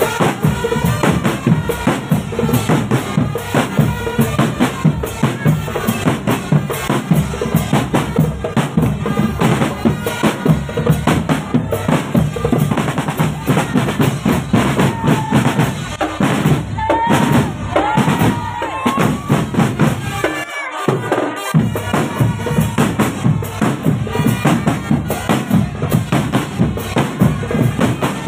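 Indonesian marching drum band playing a driving rhythm on bass drums and snare drums, with a brief break in the bass drums about twenty seconds in.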